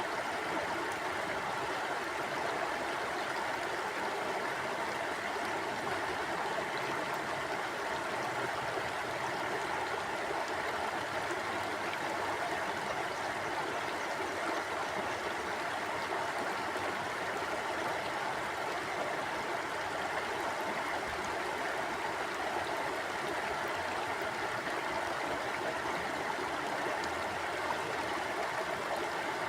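Mountain river flowing steadily over rocks, a constant rushing and babbling with no breaks.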